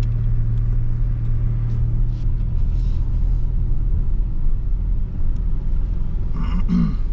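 Car driving, a steady low engine and road rumble throughout. A brief higher sound with a wavering pitch cuts in near the end.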